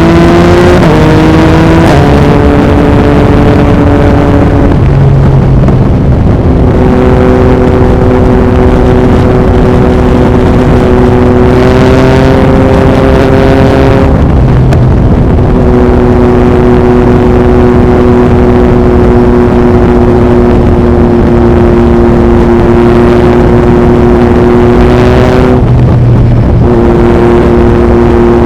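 Yamaha MT-09's crossplane inline-three engine through an Akrapovic racing exhaust, pulling through quick upshifts at the start, then running at a steady cruising pitch. The engine note drops out briefly three times as the throttle comes off. Heavy wind noise on the microphone.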